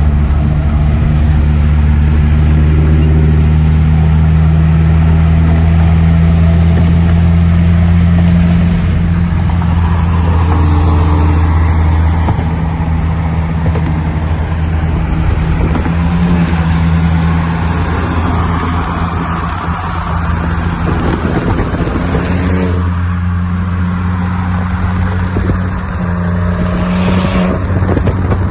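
Saab 9-3's 2.8-litre turbocharged V6 running at steady revs, a low engine and exhaust drone that eases off about twelve seconds in and shifts again a little after twenty seconds.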